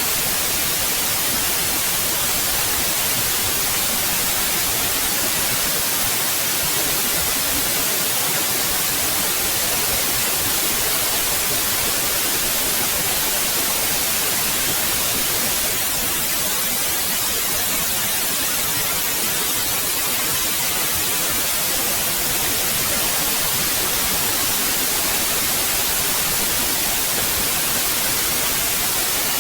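Steady white noise: an even, unchanging hiss across the whole range, bright and high-heavy.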